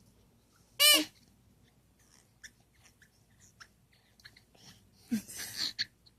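A rubber giraffe teething toy gives one short, sharp squeak as a baby bites on its feet, followed by faint wet mouthing clicks. Near the end there is a brief breathy baby vocalization.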